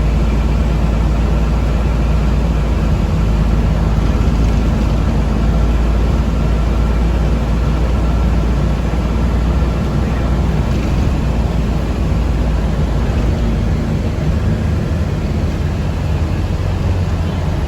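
Riding noise inside a moving city bus: a steady, loud low rumble with a faint high whine that fades out about ten seconds in, when the deepest part of the rumble also eases.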